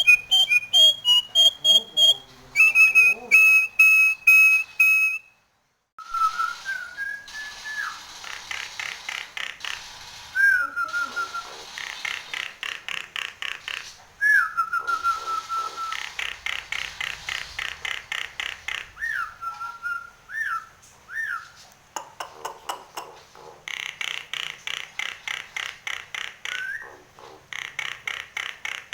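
Nias hill myna singing hard: loud clear whistles and short sliding whistled notes, mixed with fast runs of rapidly repeated chattering notes. The song breaks off for a moment about six seconds in.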